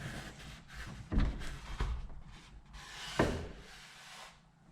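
Handling noises at a garage door: a few knocks, the clearest about one and three seconds in, with some rubbing between them.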